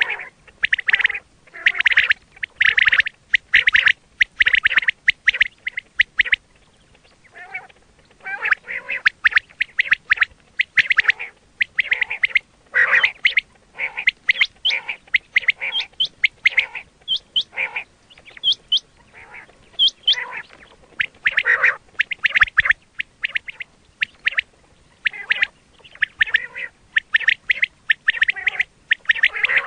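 Quail calling over and over in quick bursts of short, harsh notes, as used to lure quail when hunting, with a brief lull about seven seconds in.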